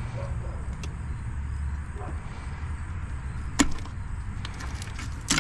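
Two sharp knocks from parts or tools being handled in an engine bay, over a steady low rumble.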